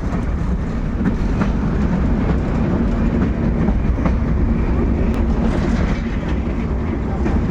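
Passenger train running at speed, heard from on board: a steady rumble and rattle with scattered clacks from the wheels.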